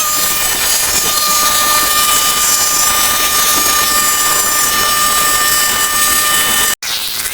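A small machine running at a steady high whine over a loud hiss, cut off abruptly near the end.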